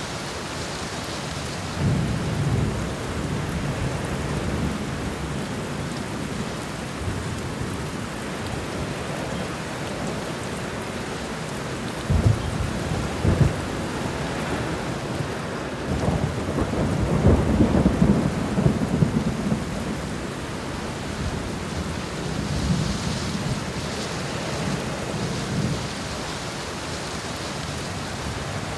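Thunderstorm: steady rain with thunder rumbling several times over it. Two short sharp thunder cracks come a little before the middle, and the loudest, longest rumble rolls on for a few seconds just past it.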